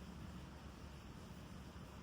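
Torrential rain heard faintly as a steady, even noise with a low rumble underneath; no thunderclap.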